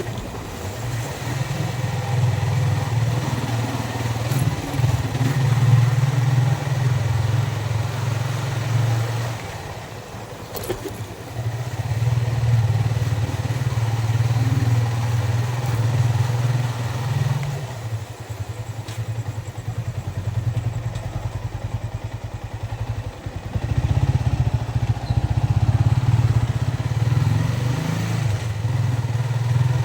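A Yamaha Vixion's single-cylinder four-stroke engine running under way. It eases off briefly about ten seconds in, then drops to a slow, evenly pulsing low-rev run for several seconds past the middle before picking up again.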